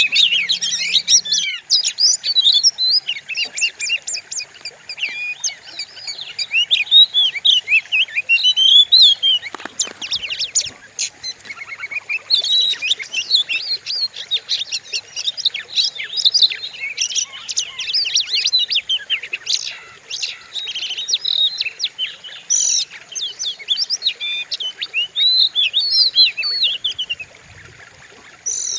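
Oriental magpie-robin (kacer) singing a fast, unbroken run of varied whistles and trills, with a short lull shortly before the end.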